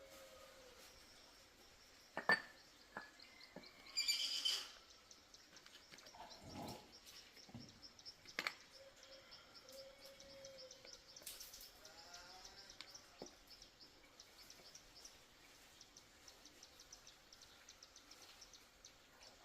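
Quiet background of birds chirping and an insect's rapid high-pitched trill, broken by a few sharp clicks and knocks and a brief pitched squeak about four seconds in.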